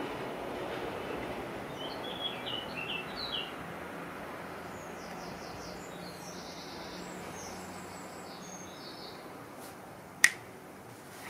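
Faint birds chirping over a steady background hiss: short chirps a couple of seconds in, then higher, quicker twittering. There is one sharp click near the end.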